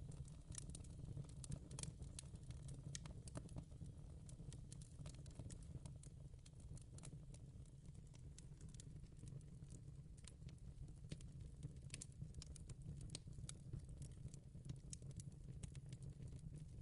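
Fire crackling in a fireplace: faint, irregular sharp pops and snaps, several a second, over a steady low rumble.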